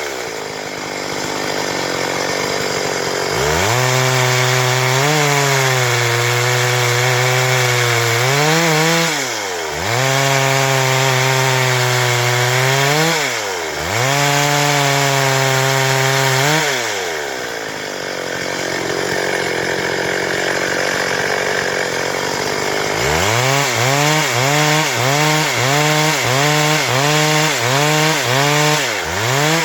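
Stihl MS 382 two-stroke chainsaw cutting through wood at high revs, its engine note holding steady under load, then dropping and recovering in pitch a few times as the throttle is eased. In the middle it falls away to a lower, rougher running for several seconds, and near the end the revs rise and fall rhythmically, about one and a half times a second.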